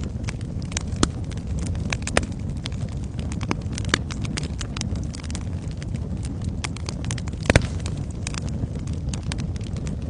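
Wood fire burning in a fireplace: a steady low rumble of flames with irregular crackles and snaps throughout, and one sharper pop about seven and a half seconds in.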